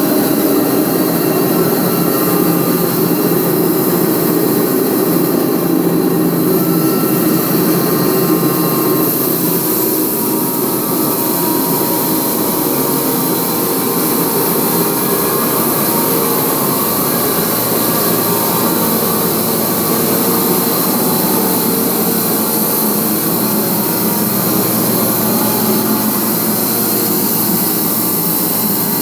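Homemade band sawmill running with a loud, steady machine noise from its motor and blade.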